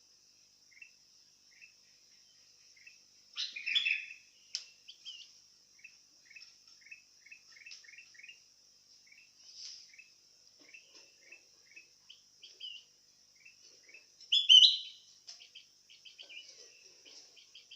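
Sooty-headed bulbul (kutilang) calling actively: a string of short chirps, with louder, fuller bursts of song about four seconds in and again near the end, over a steady high hiss.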